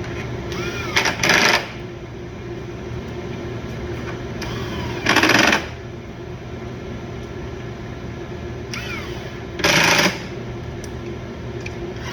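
A power tool driving 10 mm bolts into the bumper in four short bursts: two in quick succession about a second in, one about five seconds in and one near the end.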